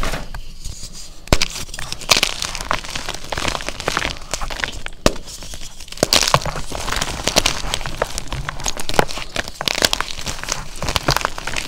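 Fresh gym chalk being crushed: a dense run of fine crunches and crackles that gets busier and louder about six seconds in.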